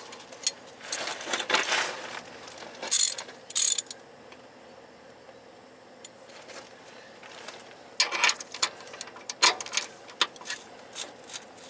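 Socket ratchet wrench clicking, with metal sockets clinking, in short bursts as sockets are tried on a bolt, then a quieter pause of a few seconds before more ratcheting and clinking.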